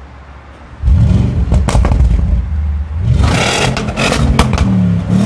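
Audi RS6 engine starting: after a quiet second it fires and flares to a loud rev, then settles and revs again about three seconds in, with sharp pops and crackles from the exhaust.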